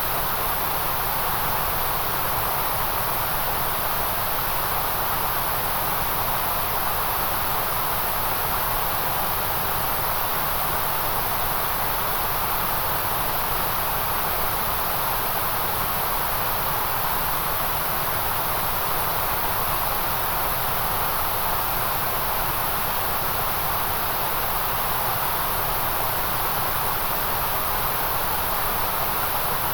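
Steady white-noise hiss that never changes, strongest in the middle register and in a bright, high hiss.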